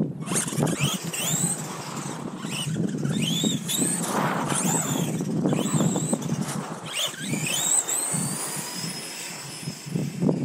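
Bezgar 4x4 RC truck's electric motor and drivetrain whining through a full-throttle speed run on a 3S LiPo with its stock electronics. The whine rises and falls in pitch several times, with a long rising whine near the end, over loud wind and tyre rush.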